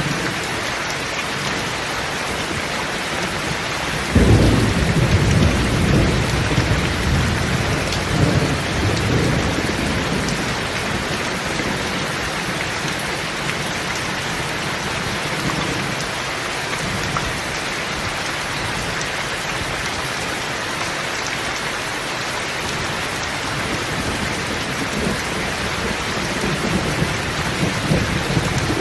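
Rain falling on a zinc sheet roof, a steady hiss. A clap of thunder breaks in suddenly about four seconds in and rumbles on for several seconds, with more low rumbling near the end.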